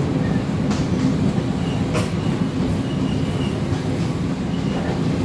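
Cikuray passenger train running slowly over the rails at about 20–25 km/h, heard from its rear: a steady low rumble with a couple of sharp clicks from the wheels on the track.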